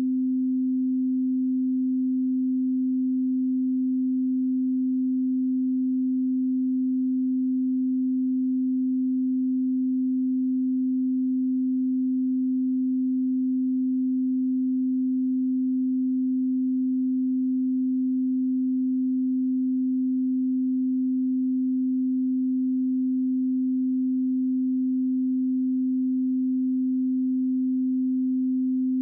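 A steady 258 Hz pure sine-wave calibration tone, a low hum with no overtones, held unchanged at a constant level.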